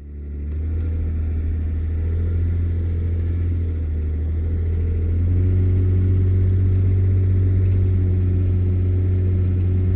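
Vehicle engine droning steadily, heard from inside the cab while driving. About five seconds in, the drone steps up a little in pitch and loudness.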